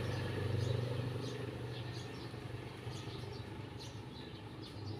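Small birds chirping in short, repeated calls, over a low hum that fades after the first couple of seconds and comes back near the end.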